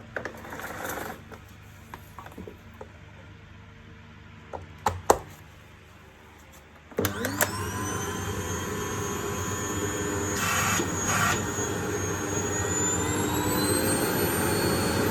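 A few clicks and knocks, then about halfway through the Electrolux Ease C4 bagless vacuum cleaner's motor is switched on. Its whine rises as it spins up, and it then runs steadily.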